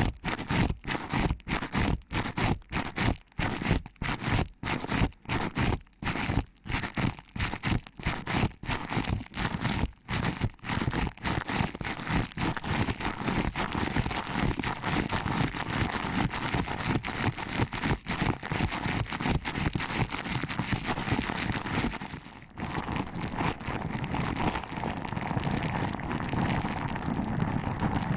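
Close-miked ASMR ear pinching and rubbing: crackly scratching and scraping strokes, about two or three a second at first. After about eleven seconds the strokes run together into continuous dense rustling scraping, with a brief break a little after twenty-two seconds.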